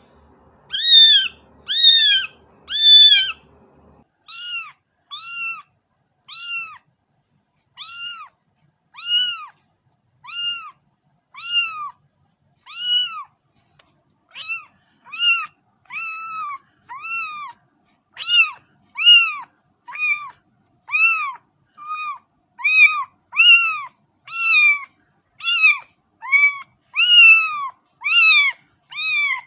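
A cat meowing over and over, about one short meow a second, each rising then falling in pitch; the first three are the loudest.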